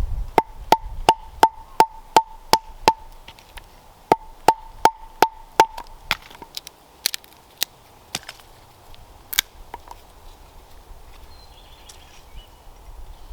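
A tool striking wood in quick, evenly spaced blows, about three a second, each with a short ringing knock. It comes in two runs with a brief pause between. From about six seconds in, the blows become fewer and irregular.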